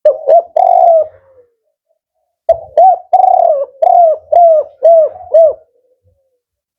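Male spotted dove (tekukur) cooing: a short phrase at the start, then after a pause a longer song whose last part is four short, evenly spaced coos, the 'kuk 4' song type.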